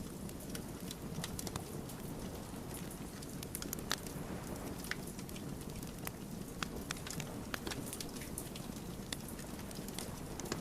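Wood fire burning, a steady low rush under frequent, irregular sharp crackles and pops from the burning logs, one louder pop about four seconds in.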